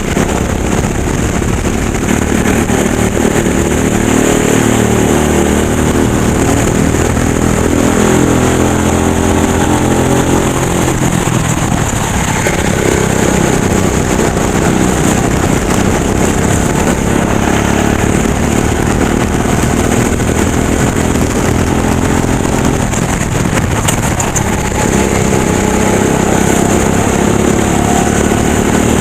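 Racing go-kart engine running hard through laps, its pitch rising as it accelerates and falling back as it slows, with two deeper drops for corners.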